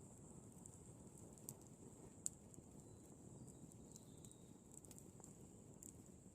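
Wood in a campfire burning faintly, with scattered sharp crackles and pops, the loudest about two seconds in, over a low steady rumble of the flames.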